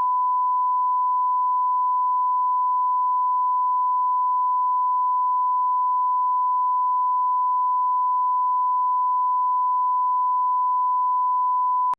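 Steady 1 kHz sine-wave line-up tone at −18 dB reference level, held unbroken and cutting off abruptly at the end: the reference tone of an audio channel test.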